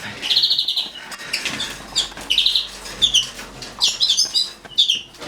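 Caged linnets chirping: short, high calls and brief trills every second or so, with light wing flutters and small clicks from the birds moving about the cage.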